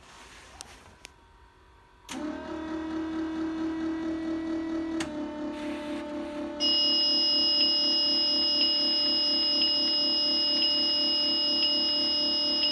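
Dashboard warning buzzers of a 2010 Blue Bird Vision school bus sounding with the ignition switched on before the engine is cranked. A steady buzz comes on about two seconds in and changes pitch about halfway. A louder, high-pitched alarm tone joins it, pulsing about once a second.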